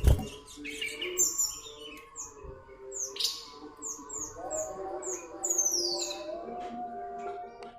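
Common iora (cipow) chirping: a run of short, high, falling chirps repeated about a dozen times. A knock sounds right at the start.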